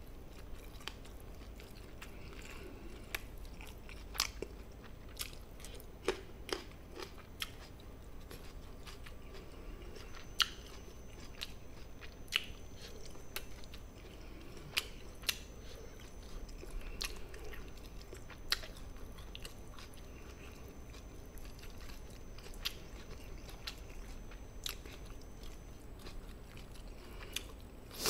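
Quiet, close-miked chewing of gochujang-marinated native chicken, with scattered sharp clicks and small wet smacks from the mouth and from wooden chopsticks on a ceramic bowl.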